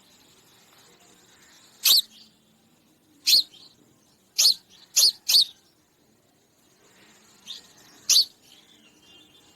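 Sparrow chirping: about six short, sharp chirps at irregular intervals, three of them close together in the middle, with a fainter chirp shortly before the last one.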